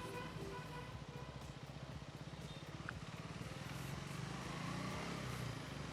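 Motorcycle engine running steadily at low revs, with a faint haze of traffic noise around it.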